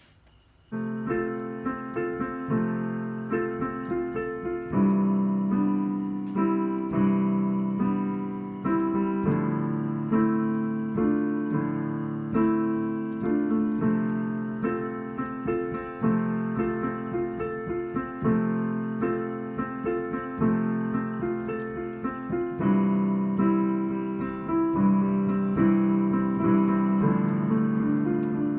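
Piano played freestyle: improvised chords and melody, starting about a second in.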